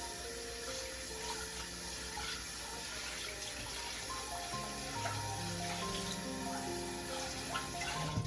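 Water running from a kitchen tap into a sink, a steady rushing hiss, over soft background music of slow held notes.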